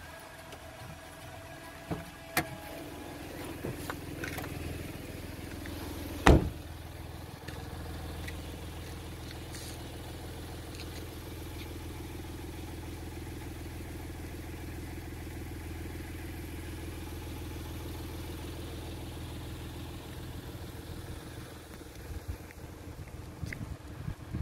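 Car engine running steadily, heard from inside the car, with a sharp knock about six seconds in.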